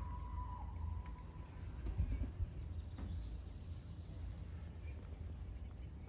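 Outdoor background: faint, high, short chirps of small birds over a steady low rumble, with a bump about two seconds in. A thin steady whistle-like tone fades out in the first second or so.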